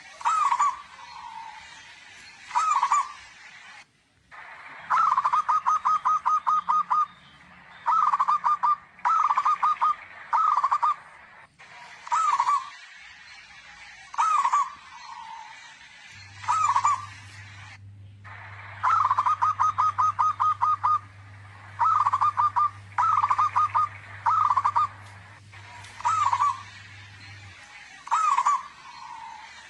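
Zebra dove cooing loudly: a run of short cooing phrases repeated every second or two, several of them rapid trills of quick repeated notes.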